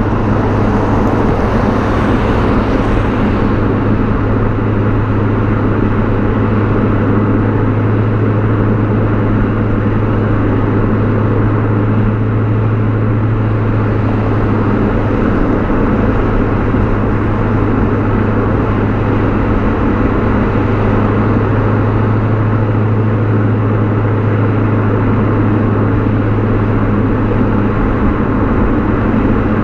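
BMW E39 540i's 4.4-litre V8 exhaust droning at steady revs while driving, heard from behind the car, with road noise under it.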